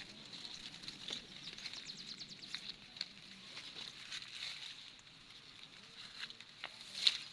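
A steady high-pitched insect drone with scattered clicks and a quick run of ticks about two seconds in, and one sharper click near the end.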